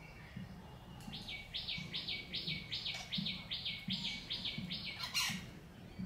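A bird calling a steady series of about ten sharp notes, each sliding down in pitch, a little over two a second, followed near the end by one sharp, louder sound.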